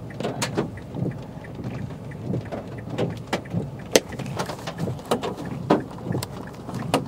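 Large, solid hailstones about golf-ball size falling and striking hard surfaces: irregular sharp knocks and thuds over a steady hiss of falling precipitation, with a few especially loud hits about four seconds in and near the end.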